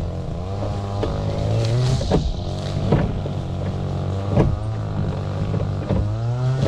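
Small boat's motor running steadily, its pitch rising briefly twice, with short slaps of water against the hull every second or so.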